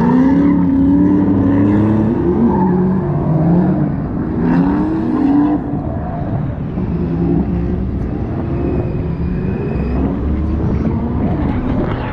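Drift car engines revving hard, their pitch rising and falling again and again.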